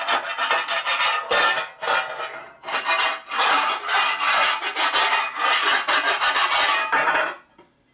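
Hand file rasping in repeated strokes, about one a second, across the edge of a chromed Harley primary cover, filing down the buildup from repeated re-chroming to get the face flat. The filing stops shortly before the end.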